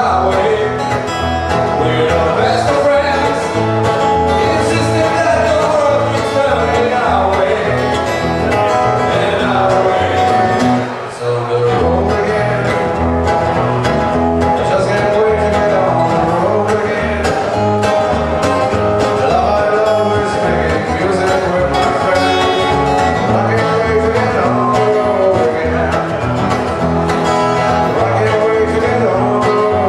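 A band playing a country-bluegrass style song, with guitars and a singing voice.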